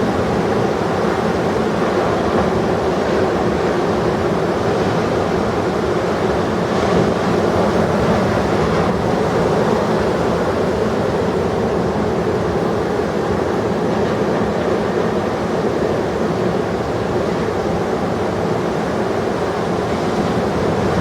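Steady, unbroken rush of heavy ocean surf breaking.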